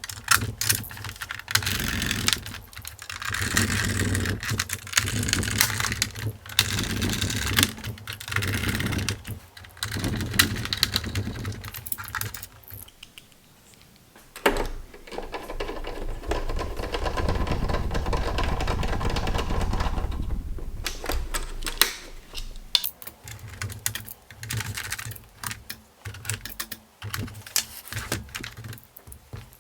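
Rapid irregular clicking and clattering of small hard parts being handled, with a steadier stretch of noise about halfway through.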